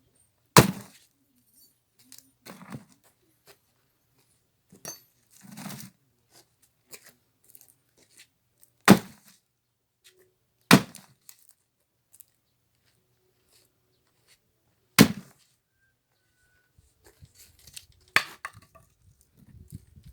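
Axe striking and splitting firewood logs: five sharp, loud chops at uneven intervals, with a few quieter knocks of wood between them.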